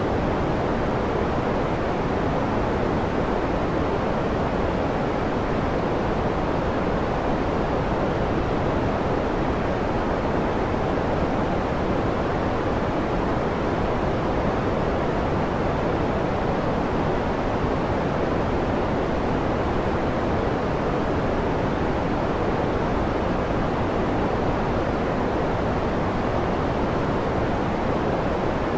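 Continuous sleep noise: an even, unchanging rushing hiss with no rhythm or swells, fuller in the lows and mids and softer in the highs.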